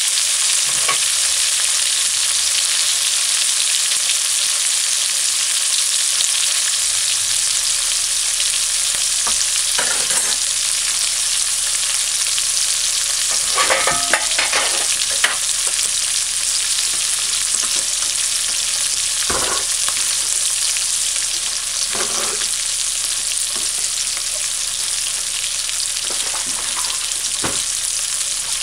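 Sliced onions and scallion sizzling steadily in hot oil in an aluminium pot, a constant frying hiss. A few short, sharp clicks break through now and then, with the loudest cluster around the middle.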